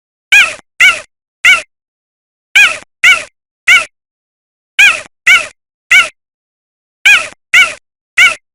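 Cheetah chirping: short, high calls that each rise and fall in pitch, coming in quick groups of three, four groups about two seconds apart.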